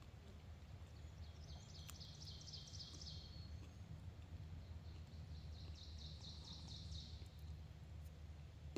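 A songbird singing two short trilled phrases of rapid repeated notes, each about two seconds long, over a steady low rumble.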